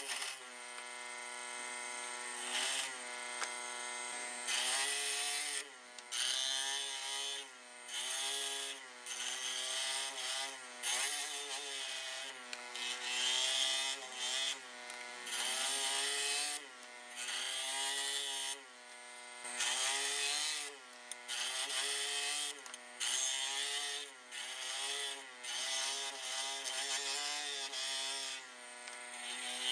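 Electric power tool working wood in repeated short passes of about a second each. The motor's whine dips and recovers in pitch as it bites into the wood and lets off, with a rasping cutting hiss during each pass.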